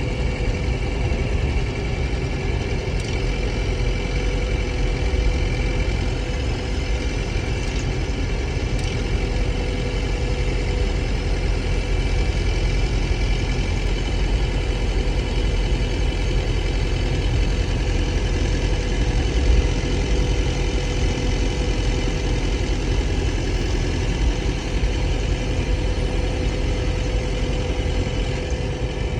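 2024 Chevy Colorado ZR2's 2.7-litre turbo four-cylinder engine idling steadily. The run carries the engine rattle that the owner is recording.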